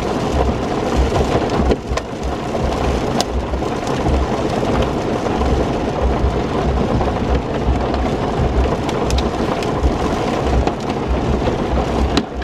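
Heavy thunderstorm rain, loud and steady, with a deep rumble underneath and a few sharp ticks of single drops striking.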